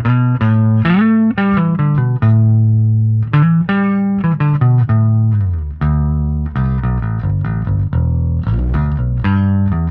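Electric bass line on a 2002 Gibson Thunderbird with Lollar T-Bird pickups and Cobalt flatwound strings, plucked through an amp with treble and bass turned all the way up and mids at about 2 o'clock. Steady run of notes with a few held notes and slides up and down in pitch.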